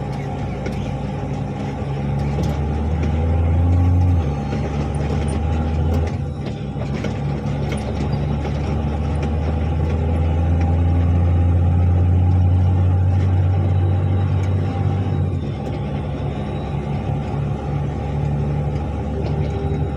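Articulated dump truck's diesel engine running under load, a steady low drone whose pitch and loudness shift a few times.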